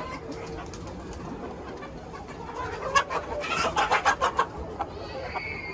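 A flock of chickens clucking and calling together, with a run of louder, sharper calls about three seconds in and a high, held call near the end.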